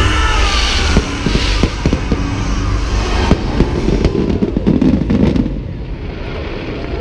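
Fireworks display: a series of sharp bangs, then a dense rush of crackling about four seconds in that dies down near the end.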